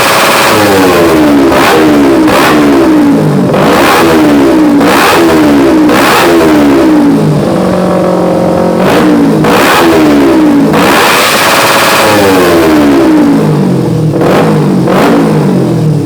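Kawasaki Ninja 250 motorcycle engine through a full aftermarket exhaust, revved in repeated quick blips, each followed by the revs falling away. About halfway through it holds a steady lower speed for a second or so, then the blipping resumes, with faster short blips near the end.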